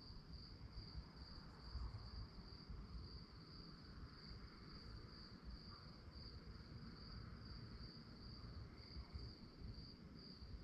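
Crickets chirping at night: a faint, steady high-pitched pulsing chirp that does not let up, over a low background rumble.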